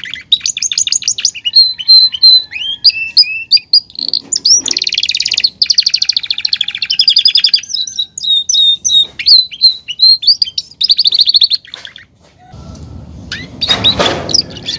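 Belgian canary singing a long, loud, varied song of rapid trills and rising and falling whistles. Near the end the song gives way to a rough, noisy sound.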